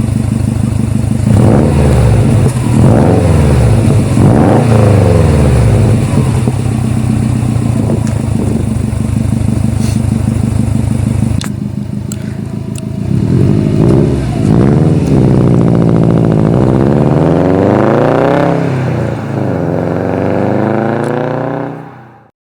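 Subaru WRX STI boxer engine breathing through an Invidia N1 single-exit exhaust, revved again and again with the pitch rising and falling. It drops back to a lower, steadier note about halfway through, is revved several more times, then cuts off suddenly near the end.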